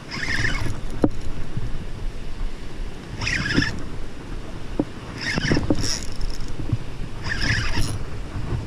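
Wind buffeting the microphone with a steady low rumble, while a spinning fishing reel whirs in four short bursts about two seconds apart as a hooked shark is fought on light tackle. A few dull knocks come in between.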